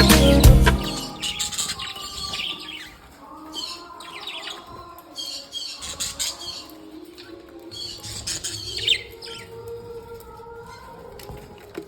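A group of pet budgerigars chirping and chattering in short scattered calls. The tail end of a song's music cuts off about a second in.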